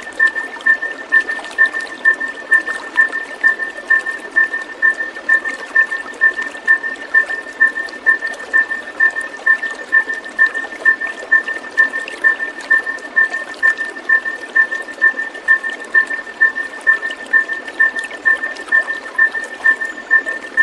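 Steady rushing, trickling water with a high two-pitched tone pulsing evenly over it about two and a half times a second, a looped calming track for white-rumped shamas.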